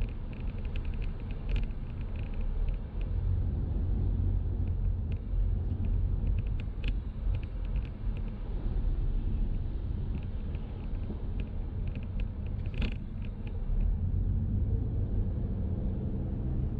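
Car driving, heard from inside: a steady low rumble of road and engine noise, with faint scattered clicks.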